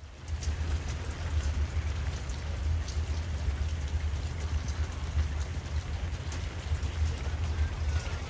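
Steady rain falling, an even hiss with scattered small drop ticks over a strong low rumble underneath.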